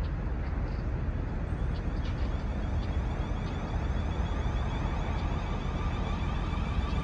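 Steady low rumble of a train running, with a faint steady whine coming in about five seconds in.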